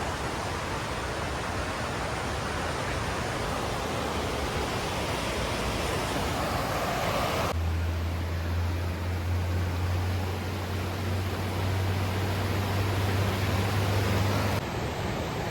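Steady rushing of white water at the Falls of Dochart, a waterfall of rapids. Its tone changes abruptly about halfway and again near the end, and between those points a low steady hum sits underneath.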